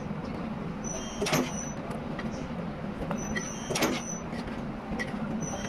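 Factory machinery running with a steady hum, and a sharp hissing stroke about a second in and again near four seconds, repeating every two and a half seconds or so like a machine cycling.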